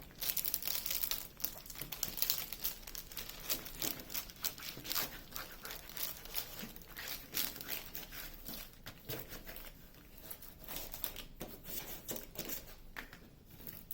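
Plastic film on a diamond painting canvas crinkling in irregular bursts as it is handled and pulled back to flatten the canvas.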